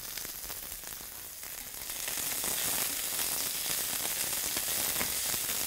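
Sliced yellow squash and onion sizzling in a frying pan, stirred with a nylon spatula, with small scraping clicks. The sizzle grows louder about two seconds in.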